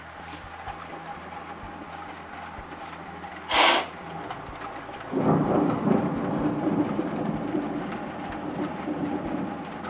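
Steady rain falling during a thunderstorm. About three and a half seconds in a short, sharp crack from a nearby lightning strike, then from about five seconds in thunder rumbles and slowly fades.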